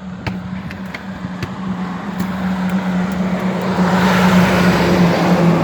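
A 2015 Peterbilt 388 semi truck approaching on the road, its diesel engine hum and tyre noise growing steadily louder; the engine note drops a little near the end as it comes by.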